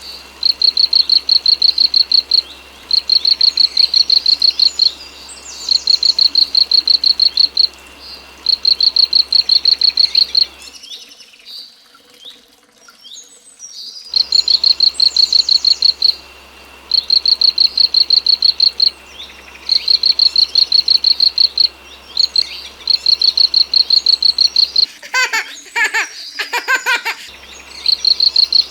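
Crickets chirping in rapid high trills of about two seconds each, repeating with short gaps, with bird chirps over them. The chirping breaks off for about three seconds near the middle.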